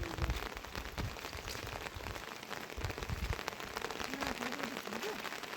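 Heavy rain falling, a dense patter of drops hitting a surface.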